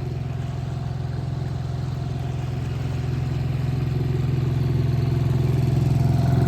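A 7 hp four-stroke outboard motor runs steadily at part throttle, held back from full power while it is being broken in. Its hum grows gradually louder toward the end.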